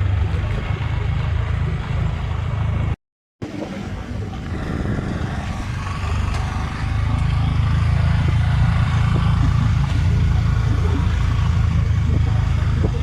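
Low, steady rumble of a motorcycle ride with wind buffeting the microphone. It cuts out for a moment about three seconds in and is louder from about seven seconds in.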